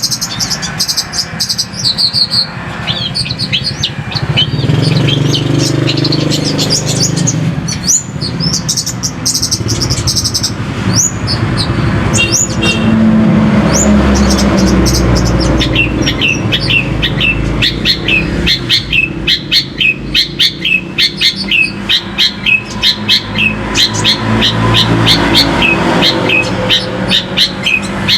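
A songbird singing a varied, chattering song of quick chirps and whistles, turning about halfway through into a fast run of short repeated notes. A steady low rumble of engine or traffic noise runs underneath.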